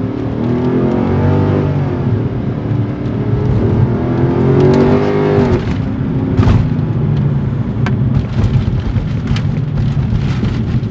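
Car engine accelerating at part throttle, its pitch climbing and then dropping at a gear change about two seconds in, climbing again to a second shift a little past the middle, then running steadily at a lower pitch.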